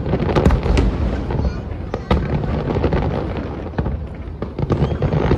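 Aerial fireworks shells bursting in quick succession, with sharp bangs over a continuous echoing rumble and a standout bang about two seconds in.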